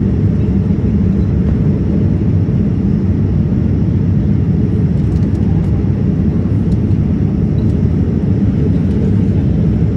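Steady low rumble of an airplane, the even drone of engines and rushing air.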